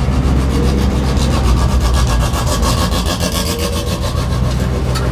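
Honda Prelude's H22 four-cylinder engine running at low, steady revs, with a gritty rhythmic rasp over a steady low drone.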